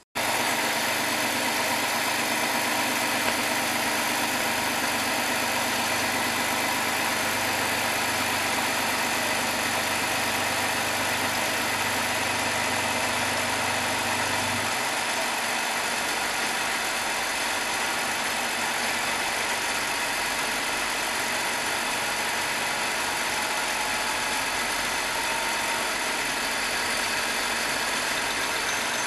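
BMW engine running steadily at idle, with its new water pump and thermostat fitted. A low hum beneath it drops out about halfway through.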